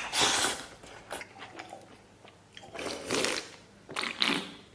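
A person eating noisily close to the microphone, biting and chewing a mouthful of chili-fried pork belly in a few wet, irregular bursts.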